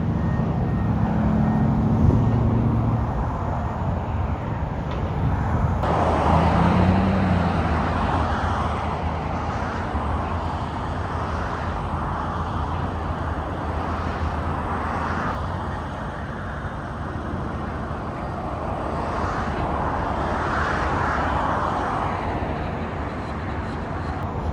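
A motor running steadily, with low humming tones that are strongest in the first few seconds, under a rushing noise that swells and fades.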